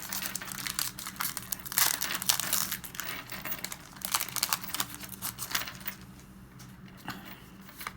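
Plastic Pokémon booster pack wrappers crinkling and cards being handled: a run of irregular rustles and crackles that thins out over the last couple of seconds.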